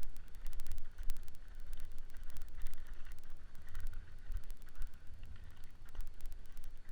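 Wind buffeting the microphone in a low rumble, with a dense run of sharp clicks and crackles over it.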